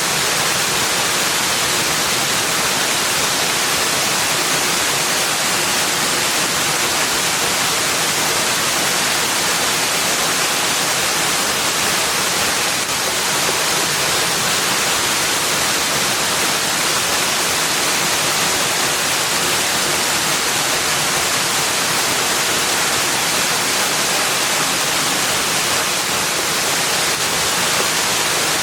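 Rushing water making a steady, even hiss with no changes.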